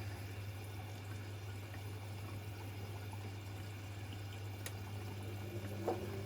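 Washing machine taking in water: a steady rush of water over a low, even hum, with a short knock near the end.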